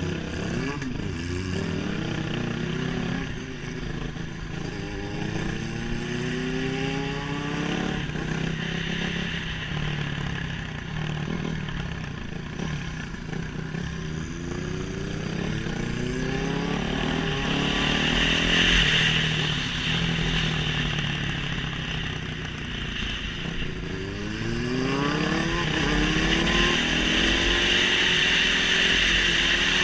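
Motorcycle engine accelerating hard, its pitch climbing and dropping back several times as it runs up through the gears. Under it runs a steady high-pitched rushing sound, strongest in the second half.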